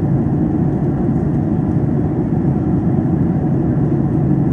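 Steady cabin noise of a Boeing 737-800 in cruise flight: the low, even rush of airflow and its CFM56 engines heard from inside the cabin.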